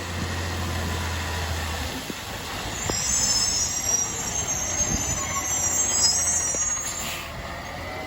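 Autocar ACX garbage truck's brakes squealing as it slows: several high-pitched, wavering squeal tones for about four seconds, starting about three seconds in, with the truck's low engine hum dropping away just before.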